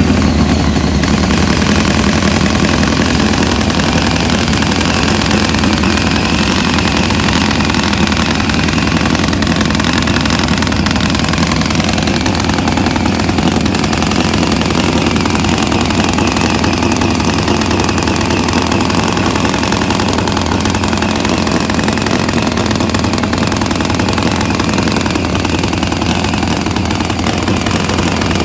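Drag-racing motorcycle engines running steadily at idle, a loud, even engine sound with no revving.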